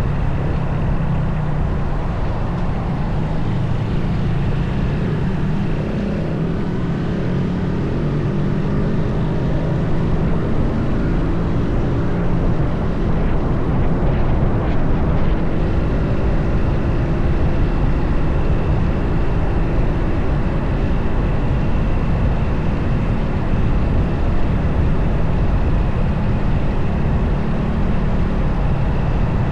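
Motorcycle engine running while riding, mixed with steady wind rush on the microphone. The engine note shifts a little partway through.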